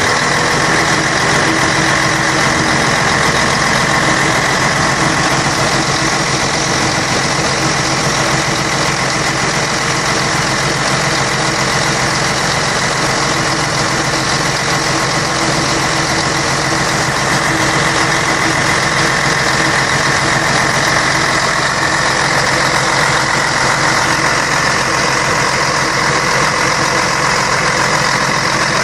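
Scania K113 bus's 11-litre six-cylinder diesel engine running steadily, its sound even and unchanging throughout.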